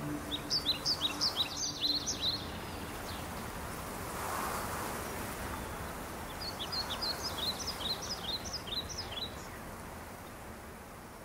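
A bird twittering in two quick runs of short, high chirps, the second starting about six seconds in, over a steady background hiss that slowly fades toward the end.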